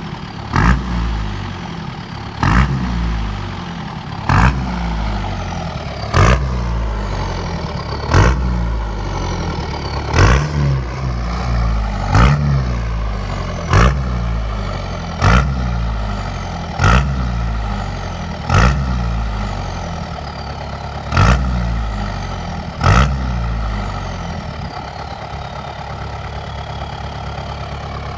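Kubota turbo diesel engine in a pickup being blipped over and over, about thirteen quick revs roughly two seconds apart, each falling back toward idle, then settling into a steady idle near the end.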